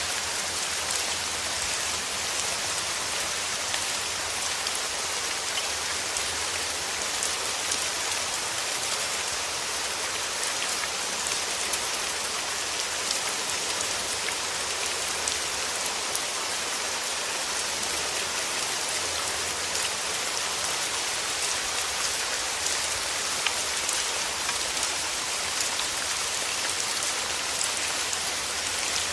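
Steady rain falling, an even hiss of many drops pattering on a surface with small individual drop ticks.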